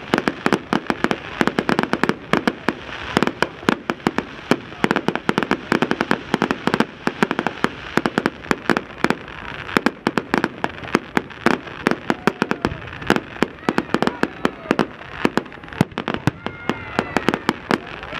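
Fireworks display: a rapid, continuous barrage of sharp bangs and crackling from aerial shells bursting, several reports a second with no pause.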